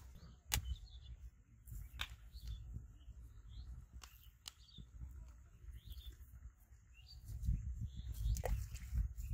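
Small birds chirping now and then, over a fluctuating low rumble that swells near the end, with a few sharp clicks.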